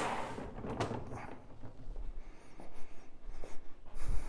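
A cleaning machine's steady motor hum cuts off at the start, followed by faint scattered scraping and clicking handling sounds. A few louder clicks come near the end.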